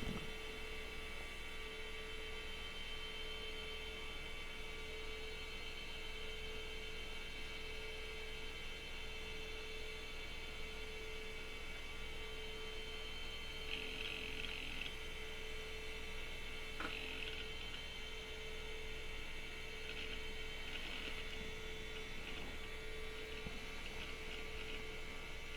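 Steady electrical hum with a higher whine from a running retro PC while it restarts, with a few faint brief sounds and one soft click partway through.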